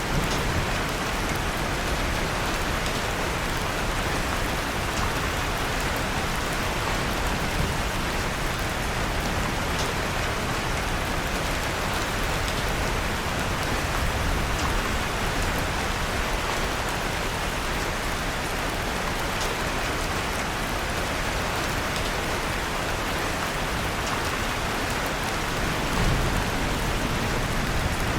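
Steady, even rain falling, with faint crackles from a wood fire in a fireplace.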